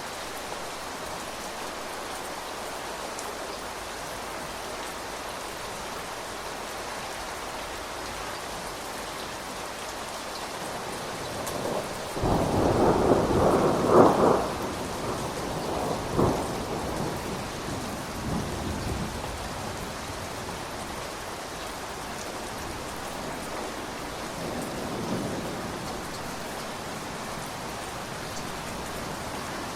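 Steady rain, with a thunderclap partway through that breaks suddenly, peaks about two seconds later and rumbles away over several seconds; a fainter rumble of thunder follows near the end.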